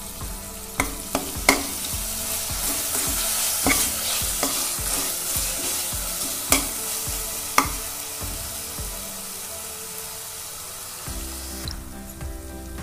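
Onions, whole spices and masala paste sizzling in hot oil in a metal pot while being stirred with a slotted steel spoon. Several sharp clinks of the spoon against the pot come in the first eight seconds. The sizzle fades near the end. This is the sautéing stage, with the masala frying down in the oil.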